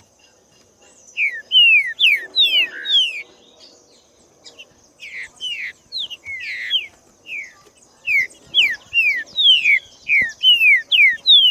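Green-winged saltator (trinca-ferro) singing: loud phrases of quick, downslurred whistled notes, a first run about a second in, another after a short pause, and a longer run near the end.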